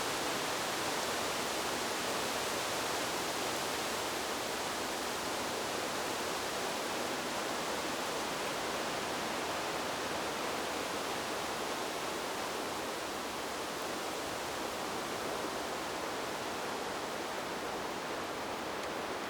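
Steady, even rushing hiss of wind-in-the-trees white noise, with no gusts or swells.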